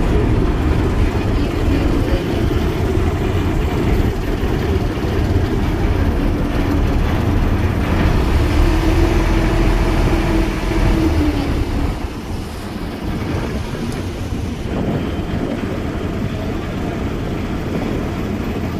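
River ferry's engine running, a steady low rumble with a hum over it, easing off a little about twelve seconds in.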